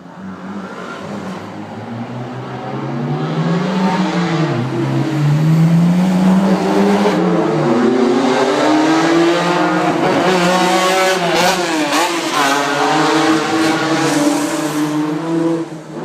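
Old racing car engine accelerating hard and changing up through the gears, its pitch climbing and dropping back at each shift. It grows louder over the first few seconds and fades near the end.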